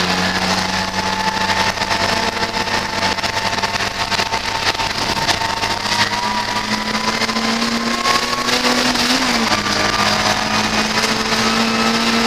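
Ford Fiesta race car's engine heard from inside the stripped cabin, running hard at high revs, its pitch climbing slowly as the car accelerates along a straight. Wind and road noise run underneath.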